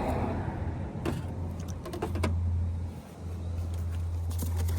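Steady low mechanical hum that dips briefly about three seconds in, with a few light clicks and knocks.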